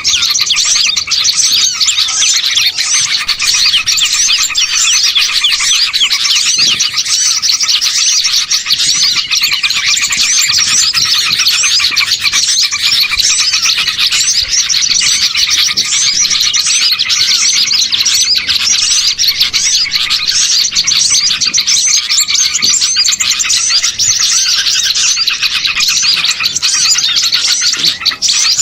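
A dense, continuous chorus of many small songbirds chirping and twittering at once, with no break: a bird-lure call recording meant to draw small birds in.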